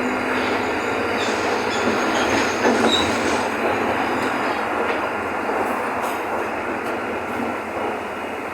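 Mercedes-Benz OF-1519 bus's diesel engine running, heard from inside the bus as a steady, noisy drone.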